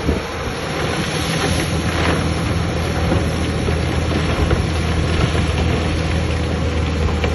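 Diesel engine of heavy earthmoving machinery running steadily, a low hum with a broad hiss over it.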